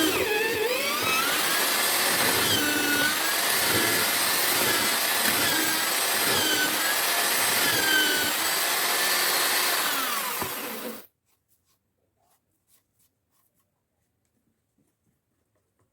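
Homemade drill-powered mortising machine running and cutting into wood, its motor whine dipping in pitch and recovering again and again as the bit bites and eases off. It cuts off abruptly about eleven seconds in.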